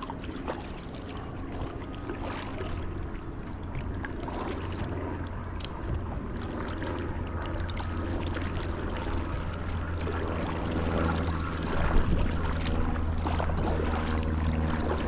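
Vintage R5 Riverrunner kayak moving on the river: paddle strokes and water splashing and dripping against the hull, over a steady low rumble, with a sharper splash or knock about twelve seconds in.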